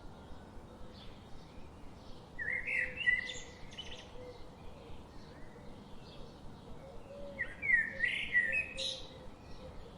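Songbird singing in a forest: two warbled phrases, one about two and a half seconds in and a louder one about seven seconds in, with fainter chirps between, over a steady background hiss.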